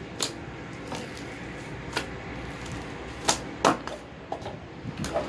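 Slime being kneaded and squeezed by hand, giving short wet pops and clicks about once a second, the two loudest a little past the middle.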